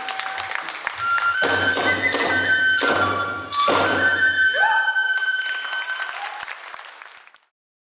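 Hiroshima kagura music: a bamboo transverse flute holds high notes over jangling hand cymbals and drum strokes, with several heavy drum hits between about one and four seconds in. The music then fades out and stops near the end.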